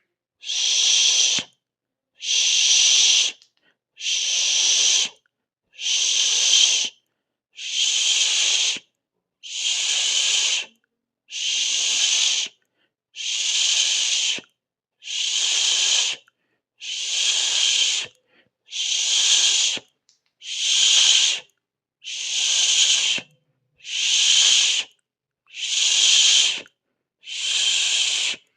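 A person's hiss, a drawn-out 'sss' through the teeth, repeated in even strokes about every two seconds, each lasting just over a second with silence between.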